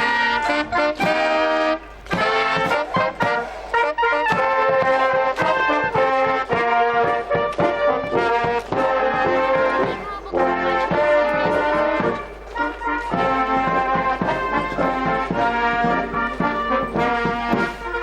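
Brass band playing a tune, starting abruptly, with sustained chords and shifting notes.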